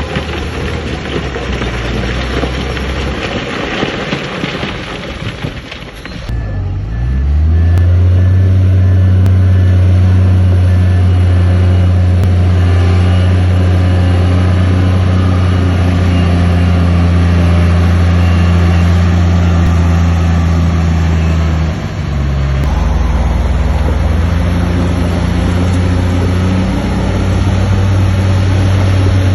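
Heavy diesel engine of earthmoving machinery, rough and noisy at first, then revving up about six seconds in and running hard and steady. Its pitch dips briefly a little past the middle, then it picks up again.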